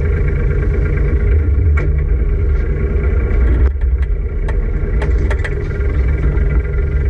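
An engine running steadily at an even speed, with a few sharp clicks or knocks over it.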